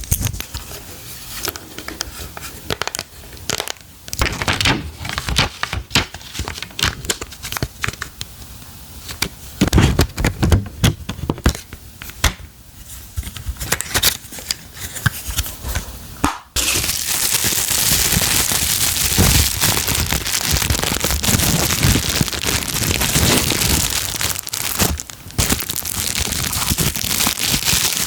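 Packaging wrapping being handled and torn open close to the microphone: scattered sharp crackles and crinkles, then, a little past halfway, a sudden switch to dense, continuous crinkling and crushing.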